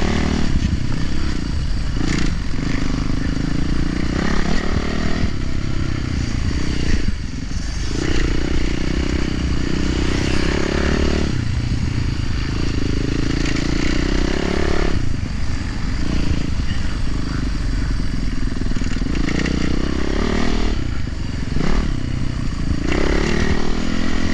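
Yamaha YZ450F's single-cylinder four-stroke engine pulling hard and rising in pitch, then dropping off as the throttle is rolled off, again and again every few seconds, as the dirt bike is ridden.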